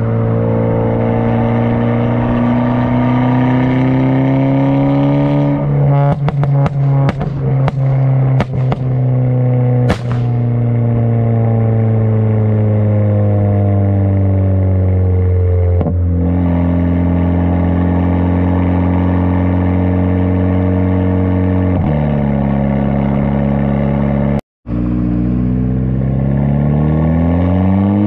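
VW GTI's turbocharged 2.0-litre four-cylinder engine on the move through a catless downpipe and Tomei exhaust, its pitch rising and falling. A run of sharp pops comes about six to nine seconds in, the engine note drops in steps twice as the DSG gearbox shifts up, and it climbs again near the end.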